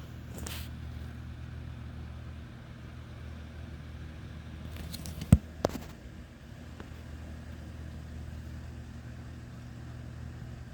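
Steady rain, an even hiss over a low steady hum, with a sharp knock about five seconds in and a smaller one just after it.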